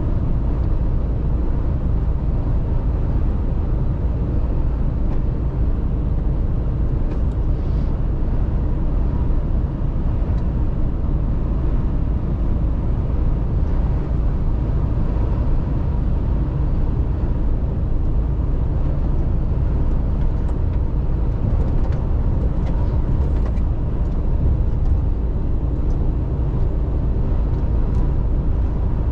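Mercedes-Benz Actros truck driving at a steady pace: its diesel engine drones evenly under a low rumble of road noise.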